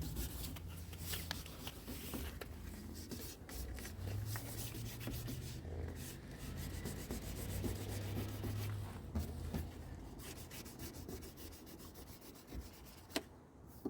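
800-grit sandpaper rubbing back and forth over a car's body repair in irregular scratchy strokes, feathering the edges of the patch smooth and level before paint.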